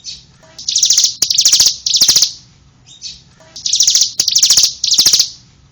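Bar-winged prinia (ciblek) singing: high, rapid trills in short bursts, three in a row, then a pause, then three more.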